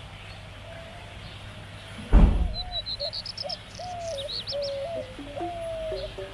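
A single thump about two seconds in, then birds calling: a quick run of rising high chirps and a few sharp sweeps over a repeated, lower cooing call.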